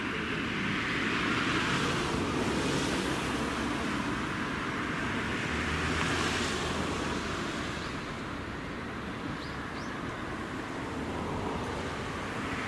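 Road traffic going by: a steady rush of noise that swells as vehicles pass, about 2 s and 6 s in, then eases. Two faint short chirps come through about 9 s in.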